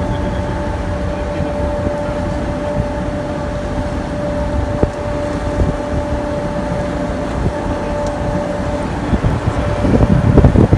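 Canal tour boat's engine running steadily: a low rumble with a constant whine. Wind buffets the microphone in louder gusts near the end.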